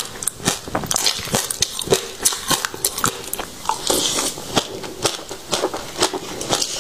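Close-miked chewing of a mouthful of crunchy seeds: a dense run of sharp, irregular crunches and crackles.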